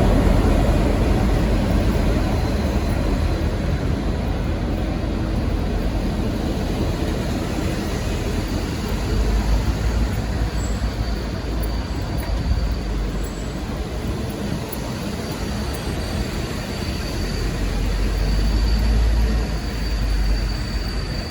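A V/Line N-class-hauled passenger train rolling past: a steady low rumble and wheel noise that swells twice. A faint high wheel squeal comes in about a third of the way through.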